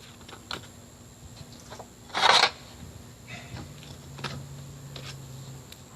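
Scattered clicks and rattles of handling at a dryer vent, with one loud scraping rustle about two seconds in and a faint steady low hum partway through.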